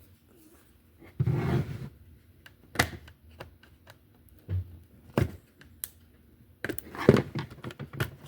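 Hard plastic slot car display case being handled while its sealing stickers are picked at: scattered clicks and taps of plastic, with a short louder scuffing noise about a second in and a quick cluster of knocks near the end.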